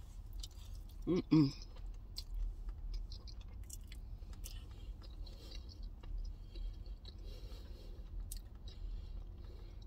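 Close-up chewing of a mouthful of chili cheese fries, with soft wet mouth sounds and small clicks, and a short hummed voice sound about a second in.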